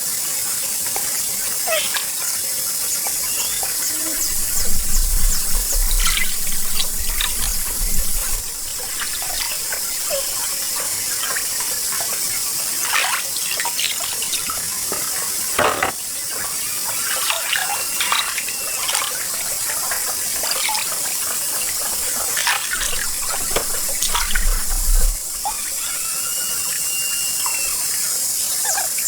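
Shallow pond water splashing and sloshing as hands work through it, with many small irregular splashes and drips. Two brief spells of low rumble stand out as the loudest moments.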